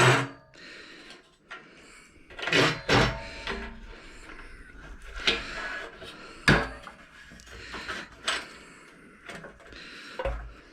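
Metal frame rails and brackets being handled and fitted by hand: a series of irregular knocks and clanks with rattling and scraping between them. The sharpest knock comes right at the start.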